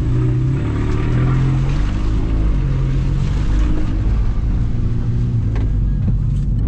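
Volkswagen Scirocco's engine heard from inside the cabin, pulling away and speeding up with a couple of breaks in the engine note as it shifts gear, over a steady hiss of tyres on a wet road.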